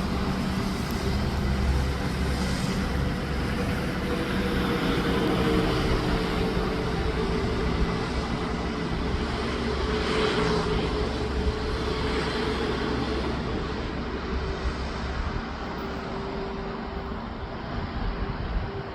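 Heavy truck running on the highway: a steady engine drone with road and tyre noise, easing off slightly over the last few seconds.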